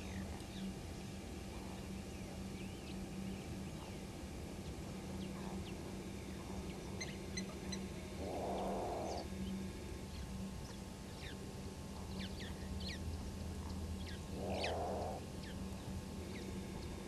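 An unidentified wild animal gives two rough calls, each about a second long and about six seconds apart, over scattered bird chirps and a steady low hum.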